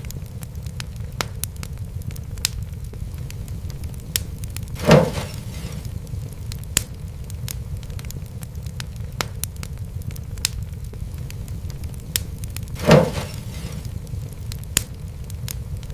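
Wood fire crackling in a fireplace: frequent sharp snaps and clicks over a steady low rumble of flame, with two louder, fuller pops about five and thirteen seconds in.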